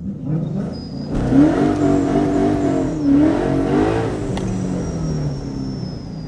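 High-performance car engine revving hard, its pitch climbing and dropping several times, then running more steadily with a thin high whine over it.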